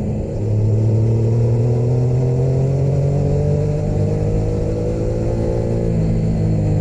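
Motorcycle engine under way, its pitch rising slowly as it pulls for about five seconds, then easing down near the end. There is a brief dip in level just after the start.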